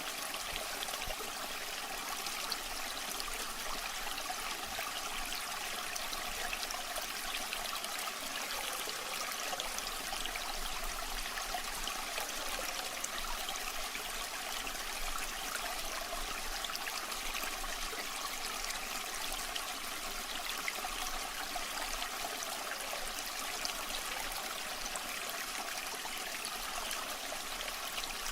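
Waterfall water flowing and splashing in a steady, even rush, mostly high in pitch with little deep rumble.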